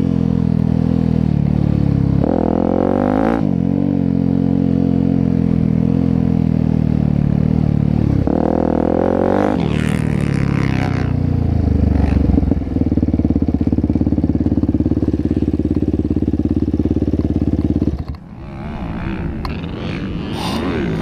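Dirt bike engine at full throttle on a motocross track, its pitch climbing and then dropping back several times as it shifts or comes off the throttle. It holds a steady high drone for a few seconds, then cuts back sharply near the end.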